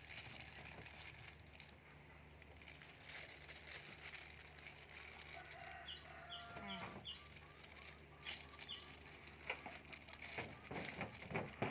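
Faint birdsong: small birds chirping in short repeated high notes, clearest about six to seven and a half seconds in, over a low steady hum. A few soft knocks come near the end.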